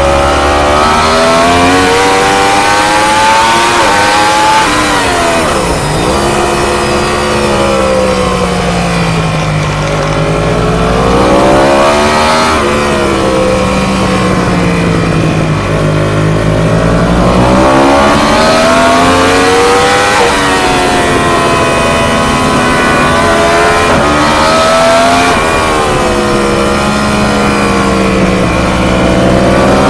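Onboard sound of a 1000cc ST1000 race superbike lapping at speed: the engine climbs hard through the gears in stepped rises, then drops sharply under braking, several times over, with a steady rush of wind.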